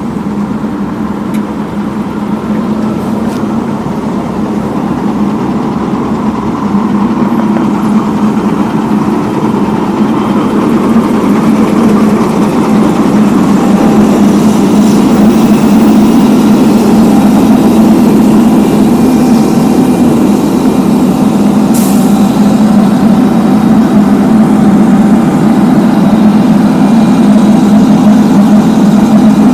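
Heavy diesel engine of road-paving machinery running steadily, growing louder over the first half.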